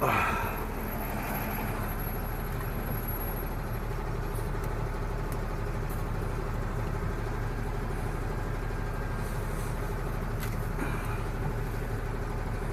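Large delivery truck's engine running steadily, a low even hum with road noise. A brief burst of louder noise comes right at the start.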